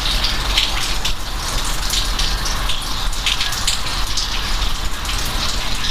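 Steady rain with a dense patter of drops splashing, over a low rumble.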